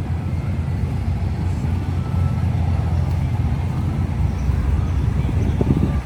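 A truck engine running steadily with a low rumble, a little louder for a moment near the end.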